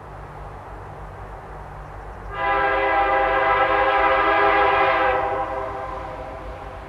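Diesel freight locomotives running with a low engine rumble. A couple of seconds in, the lead locomotive's air horn sounds one long blast of about two and a half seconds, then fades.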